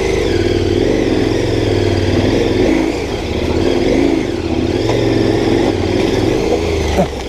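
KTM 1090 Adventure R's V-twin engine revving under throttle, its pitch rising and falling with a brief dip about three seconds in.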